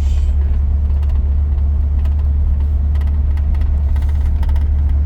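Steady low drone of a 1983 GMC C2500 pickup's V8 engine and road noise heard from inside the cab while driving, with a few light ticks or rattles in the second half.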